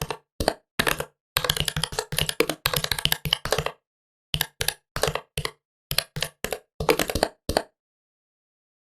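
Typing on a computer keyboard: quick runs of sharp key clicks, a fast burst in the first half and sparser keystrokes after, stopping about a second before the end.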